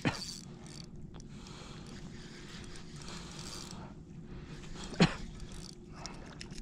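Fishing reel being cranked while a redfish is fought in, a steady mechanical winding with a ratcheting character. Two sharp knocks, the loudest sounds, land at the very start and about five seconds in.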